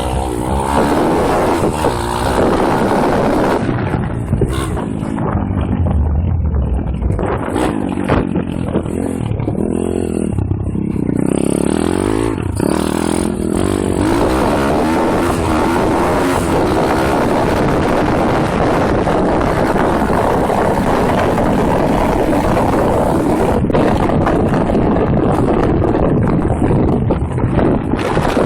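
Pit bike's single-cylinder four-stroke engine being ridden off-road and heard close from an onboard camera. The revs rise and fall repeatedly through the first half, then hold fairly steady at higher revs.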